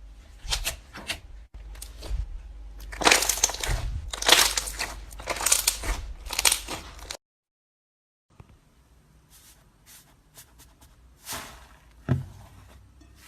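Slime being squeezed and pressed by hand, a run of crackly, squishy bursts that drops out abruptly about seven seconds in and resumes more faintly with scattered crackles.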